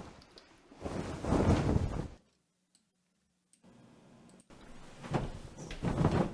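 Wing-flap sound effect playing back: a swelling whoosh of rushing air about a second in that cuts off into dead silence, then two more swelling flaps near the end.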